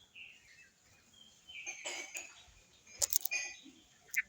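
Birds chirping in short, scattered calls, with a few sharp clicks in between.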